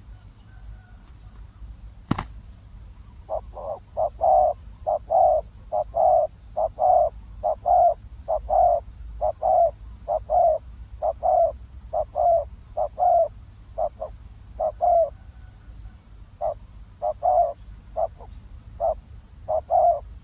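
Spotted dove cooing: repeated phrases of low coo notes that begin about three seconds in and go on with short pauses, after a single sharp click. Faint high chirps of a small bird sound now and then.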